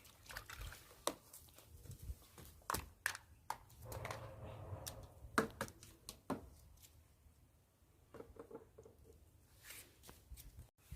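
Faint handling noise: scattered clicks and taps, with a brief rustle about four seconds in.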